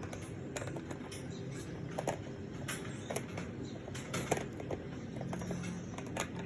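Cockatoos playing in their cage: irregular small clicks, taps and scratches from beaks and feet on toys and cage parts, over a steady low hum.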